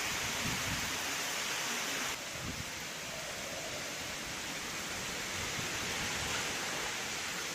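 Cyclone-force wind and heavy rain: a steady rushing noise with low gusts buffeting the microphone. The noise drops a little and changes character abruptly about two seconds in.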